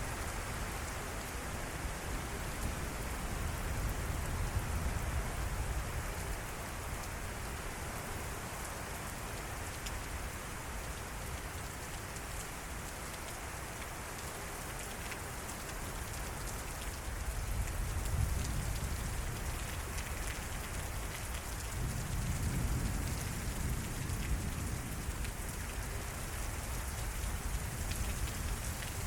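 Heavy thunderstorm rain pouring steadily, with low rumbles swelling up three times.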